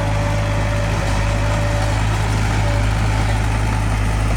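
Heavy diesel engine of earthmoving machinery running steadily at a low, even speed, with a faint high whine coming and going.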